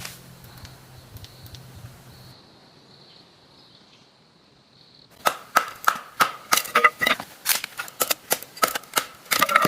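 A quick run of sharp, ringing knocks, about three a second, starting about halfway through after a quiet stretch.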